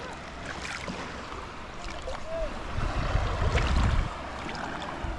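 Seaside wind on the microphone over water at the shore, with a stronger low rumble for about a second past the middle.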